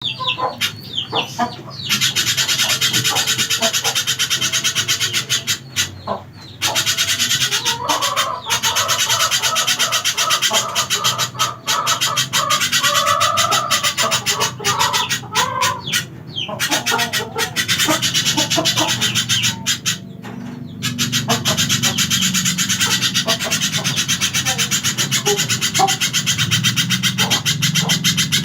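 Spiderhunter singing a long, rapid chattering song of sharp high notes repeated many times a second, broken by a few short pauses. It is a recording of the kind played as a tutor song to train caged songbirds.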